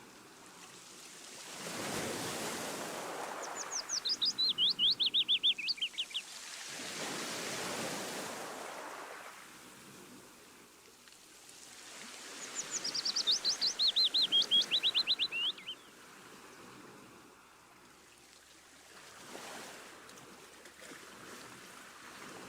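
A songbird sings twice, each song a fast trill of clear notes falling steadily in pitch. Beneath it, sea waves wash in and out in slow swells.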